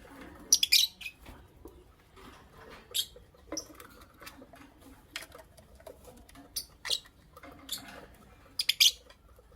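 Lovebirds chirping: short, shrill, high-pitched chirps at irregular intervals, with a quick cluster about half a second in, single chirps between, and a rapid double chirp near the end.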